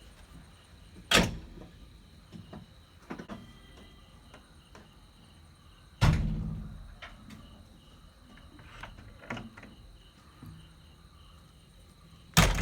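JCB 3DX backhoe loader working a pile of M-sand and stone pieces: three loud, heavy thumps about five seconds apart, about a second in, at six seconds and near the end, with lighter clicks and knocks between them, over a faint low rumble.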